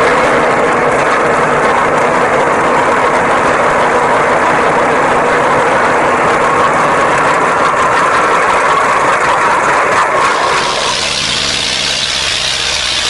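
Tractor engine running hard and steadily, with a change in its sound about ten and a half seconds in.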